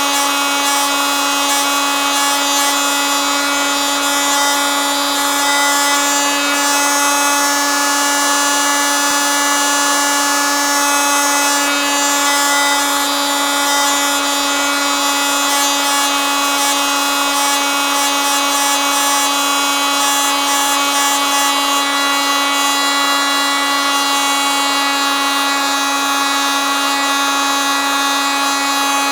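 Oscillating multitool running steadily: one unbroken, high-pitched buzz at a constant pitch and level.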